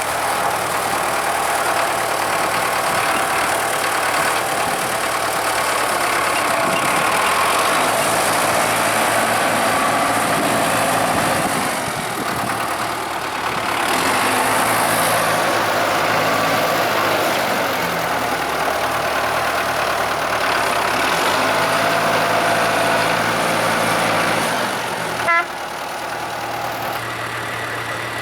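Tractor engine running steadily while driving, its pitch shifting in steps a few times. A sharp click comes near the end, after which the sound is quieter.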